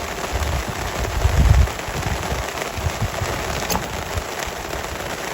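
Steady patter of rain with irregular low thumps, the loudest about a second and a half in.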